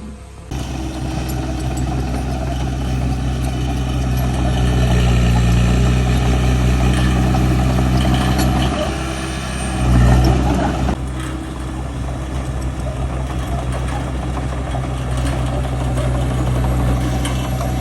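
Heavy diesel engine running steadily, coming up about half a second in, with a brief louder surge about ten seconds in before settling back.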